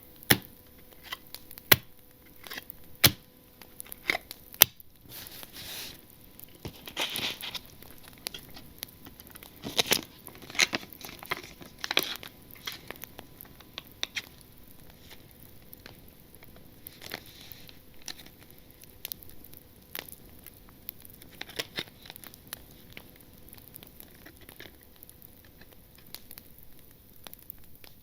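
Trading cards and foil pack wrappers handled close up: crinkling and tearing of wrapper, with many sharp clicks and taps, louder ones in the first few seconds and stretches of rustling.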